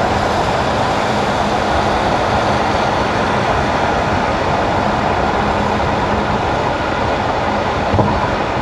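Car driving on wet asphalt: steady tyre and road noise with a faint low hum underneath, and a single light knock about eight seconds in.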